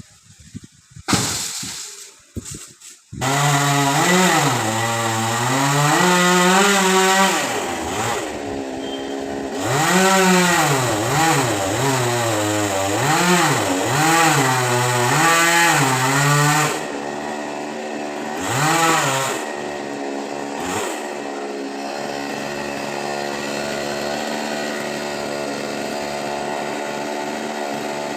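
Chainsaw engine: a few short bursts, then it catches about three seconds in. It revs up and down over and over for some fifteen seconds, then settles to a steadier, lower running note.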